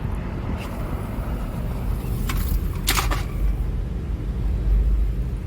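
A car driving, heard as a steady low rumble of engine and tyres, with a few short sharp clicks a little past the middle.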